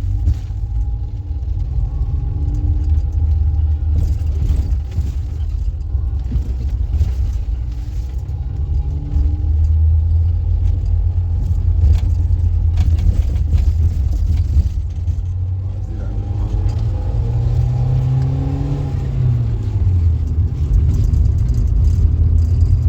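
A motor vehicle engine running under a steady low rumble. Its pitch rises and then falls about three quarters of the way through.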